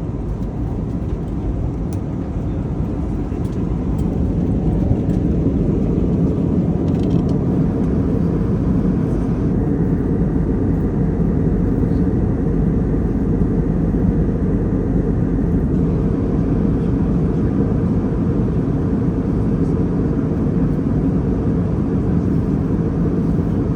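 Steady low roar inside the cabin of an Airbus A321neo in flight, the mix of airflow and its Pratt & Whitney geared turbofan engines. It grows slightly louder over the first few seconds, then holds even.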